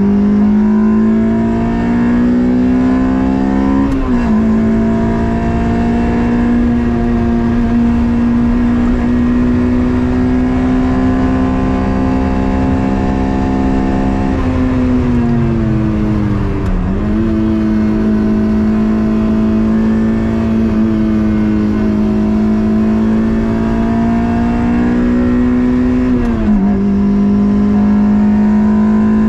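Toyota MR2's swapped-in 2ZZ 1.8-litre four-cylinder engine pulling hard under load, its pitch climbing slowly through long pulls. An upshift comes about four seconds in, the revs dip briefly about halfway, and there is another upshift near the end.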